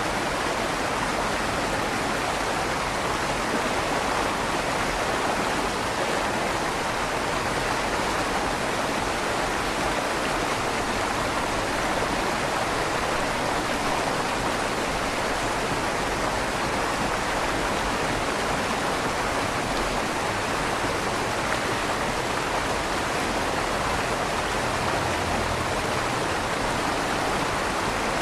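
River water flowing steadily under a stone bridge, a constant rushing with a slight echo off the inside of the stone tunnel.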